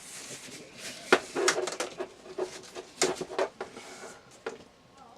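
Heavy-gauge electrical wire being worked and pulled through a tube by hand: scraping and rustling with irregular sharp knocks and clatters, the loudest about a second in and again around three seconds in.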